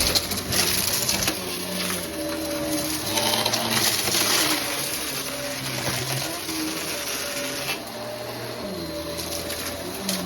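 Vacuum cleaner running over a test mess, a steady motor whine with surges of rattling hiss as it picks up debris.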